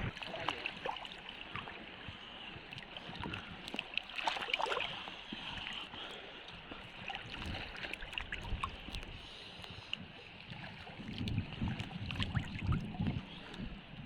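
Shallow seawater sloshing and splashing, irregular, with small scattered clicks and some wind on the microphone; it grows louder about eleven seconds in.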